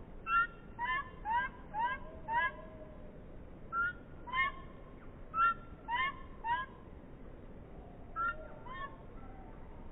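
A bird calling repeatedly: about a dozen short, rising calls, a few each second, in three runs with short pauses between them.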